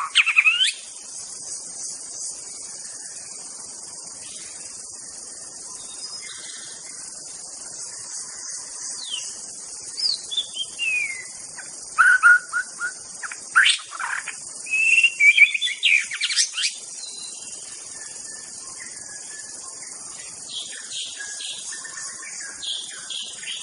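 White-rumped shama (Medan 'murai batu') singing loud, varied whistled phrases with quick rising and falling glides and trills, in bursts with pauses between, over a steady high insect-like buzz.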